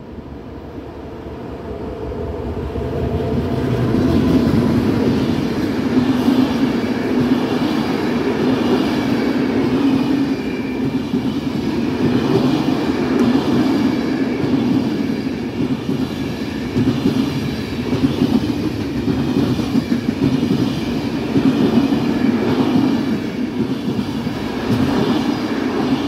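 Freight train hauled by an E652 electric locomotive passing close by. It grows louder over the first few seconds as the locomotive approaches. A long string of loaded flat wagons then rolls past with a steady rumble and regular wheel clicks over the rail joints.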